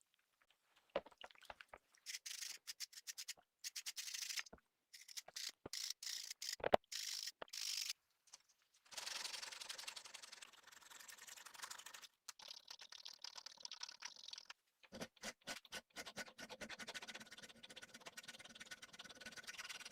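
Scraping and brushing on a rusty small metal jewelry hammer: short scratchy strokes in clipped bursts, then a longer stretch of steady rubbing, faint throughout.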